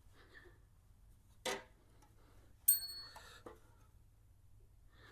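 Small metal parts being handled: a light knock, then a sharp, ringing metallic clink a second later, followed by a few faint clatters.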